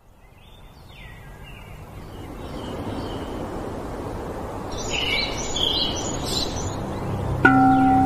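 Nature ambience swelling up from silence: a soft rushing haze with birds chirping, a few calls early and a livelier cluster of chirps about five seconds in. Near the end a bell-like tone is struck suddenly and rings on.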